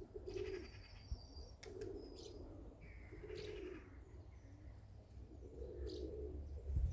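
Pigeons cooing, a soft low coo repeating every second or so. A few short high chirps from a small bird sound over it.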